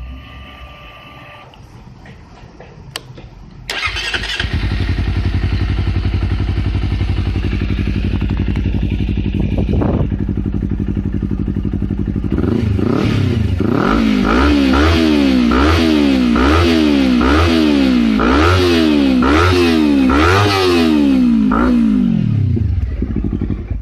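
Honda CBR250RR (MC51) parallel-twin engine breathing through a TSR titanium silencer and SP Tadao powerBOX exhaust. It starts about four seconds in and idles steadily. It is then blipped through a quick string of revs, about one a second, rising and falling, and falls away near the end.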